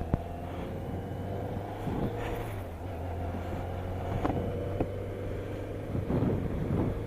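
BMW K1200RS inline-four engine running steadily under way, its pitch rising slightly, with a sharp knock just after the start and a few short thumps about six seconds in.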